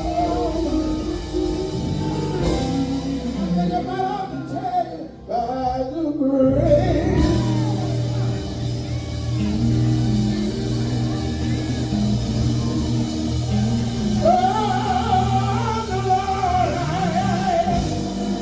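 Gospel song: singers with sliding, ornamented vocal lines over a band with a steady bass line and sustained chords. There is a brief drop in level about five seconds in.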